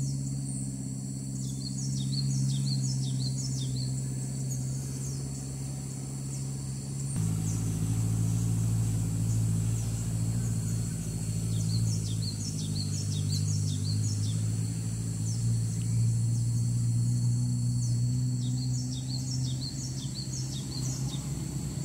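Groups of rapid, high, short chirps from cinereous tits (gelatik batu), in three separate bursts. Beneath them runs a louder steady low hum that shifts pitch about seven seconds in.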